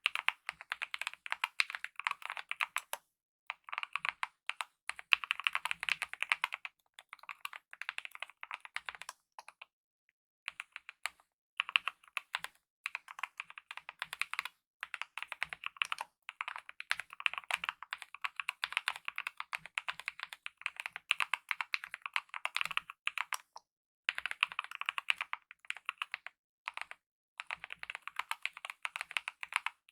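Typing on a mechanical keyboard with lubed optical red linear switches and DSA-profile keycaps: fast runs of keystrokes broken by brief pauses, the longest a little after a third of the way through.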